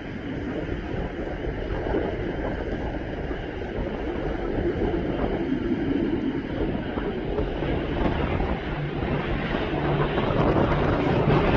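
Wind buffeting the microphone over the rumble of an approaching aircraft. The rumble slowly grows louder, and a steady engine tone comes in near the end.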